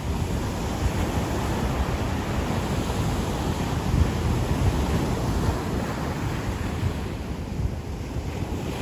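Ocean waves breaking and washing on a beach, a continuous surf wash swelling a little in the middle and easing near the end, with wind buffeting the microphone as a low rumble.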